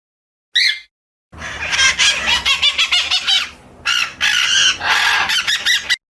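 Birds calling: a single short chirp, then from about a second in a dense run of rapid, overlapping chirps and chatter that stops abruptly near the end.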